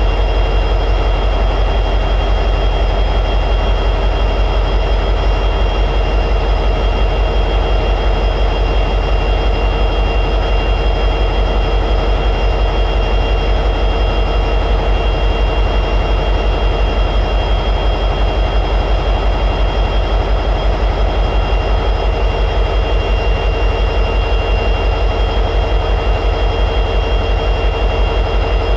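EMD 710G3B two-stroke diesel prime mover of an SD60E locomotive running steadily at high idle: a deep, fast, even pulsing with steady high tones above it.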